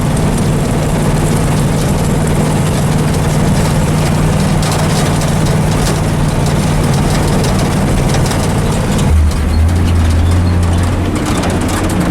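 Dump truck driving at about 45 mph: steady engine drone with road and wind noise. About nine seconds in, the engine note drops suddenly to a lower, heavier pitch and the rushing noise eases.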